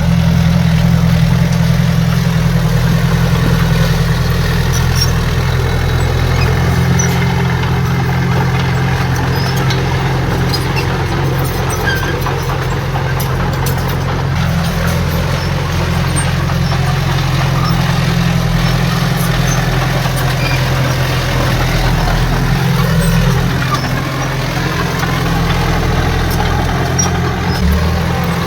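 Heavy diesel engine of earthmoving equipment running steadily with a deep drone.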